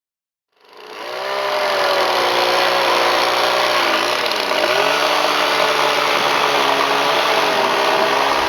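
Two-stroke chainsaw running at speed, fading in about half a second in; its engine note dips briefly a couple of times around the middle, as happens when it loads up in a cut.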